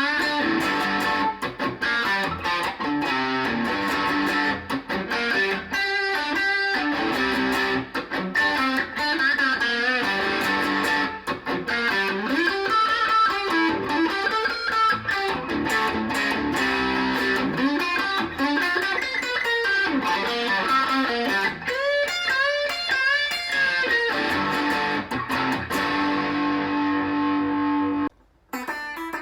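ESP LTD EC-1000 electric guitar with EMG active pickups, played through an amp: fast single-note lead lines with string bends, then a long held note. The sound cuts out briefly near the end and the playing resumes more quietly.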